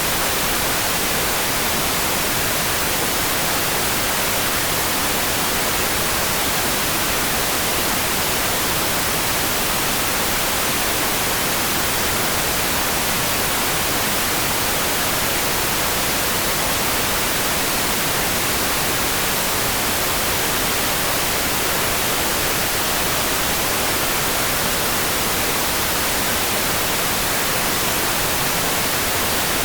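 Steady heavy rain as an even, unbroken hiss, with no separate drops, thunder or changes in level.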